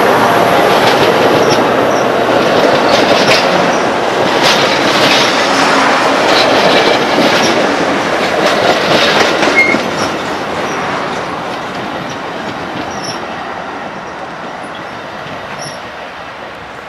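A train passing close by, its wheels clattering over the rails with sharp clicks. It fades away steadily through the last several seconds.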